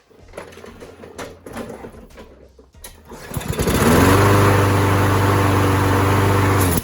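Kohler Courage XT7 single-cylinder lawnmower engine: after a few seconds of rattling, it catches about three seconds in, speeds up and runs steadily, then cuts off suddenly near the end with a backfire on shutdown.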